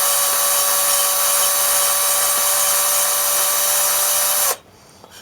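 Electric drill spinning a brake cylinder hone inside a single-piston brake caliper bore, its motor running at steady speed with a steady whine, then cutting off abruptly about four and a half seconds in. This is a light honing to clean up the bore surface of a caliper whose piston had stuck.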